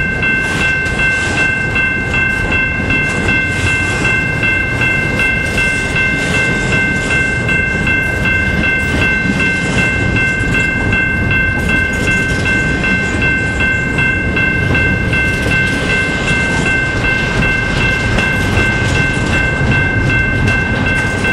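Double-stack intermodal well cars rolling past at close range: a steady rumble and clatter of steel wheels on the rail, with a steady high-pitched squeal on top.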